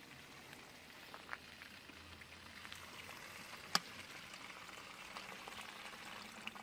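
Running water trickling and gurgling, heard faintly. A few sharp clicks stand out, the loudest just under four seconds in.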